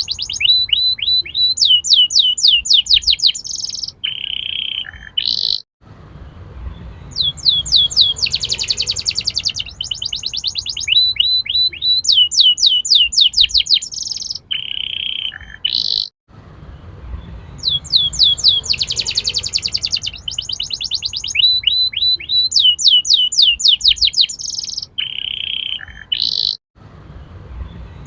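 Domestic canary singing fast trills and rolls: runs of rapid repeated notes, sweeping whistles and buzzy rattles. The same song phrase comes round about every ten seconds, with a brief cut between repeats.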